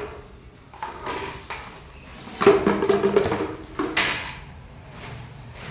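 Hard plastic pieces knocking and clattering: a few separate sharp knocks, and about two and a half seconds in a quick run of rattling hits.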